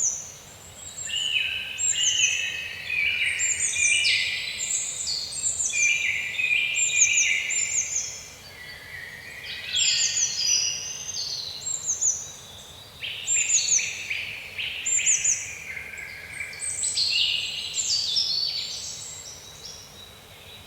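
Many small birds chirping and twittering at once, with quick, high, sweeping calls overlapping and running on without a break.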